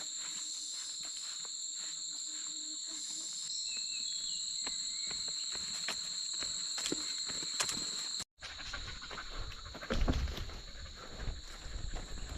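Insect chorus: a steady, shrill trilling held at two high pitches, with scattered clicks. About 8 seconds in it cuts off abruptly, then resumes over uneven low rumbling and thumps.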